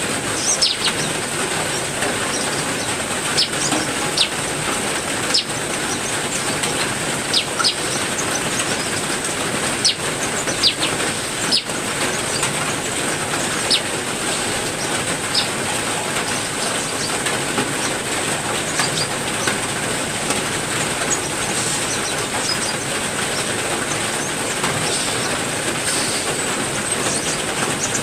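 Heavy rain falling steadily, with brief high chirps from songbirds in an aviary scattered through the first half and fewer later on.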